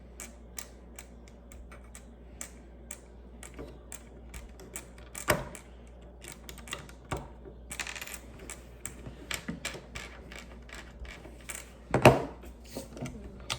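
Plastic Lego bricks clicking and clattering as they are handled and pressed together: many small, irregular clicks, with a louder knock about five seconds in and another near the end.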